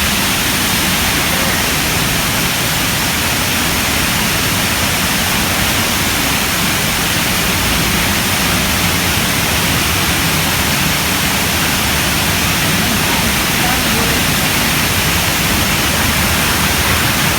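Steady, loud rushing water, with indistinct voices mixed in.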